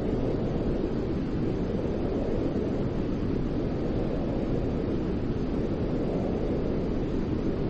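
Steady white noise for baby sleep, weighted toward the low end so it comes across as a deep, even rush, with no change in level or pitch.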